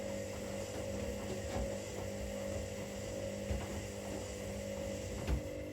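Washing machines running mid-cycle: a steady motor hum with a few soft thuds. Near the end a knock comes and the hum changes pitch.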